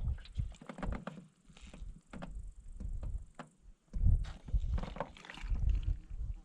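Canoe and paddle knocking: an irregular run of sharp clicks and low thumps, heaviest about two-thirds of the way through.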